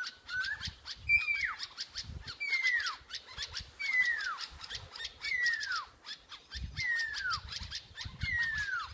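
Pearl-spotted owlet whistling a series of six long falling notes, each sliding from high to low, about one every second and a half, after a short rising note at the start. This is the loud descending phase of its song, which follows the soft run of short notes it started with.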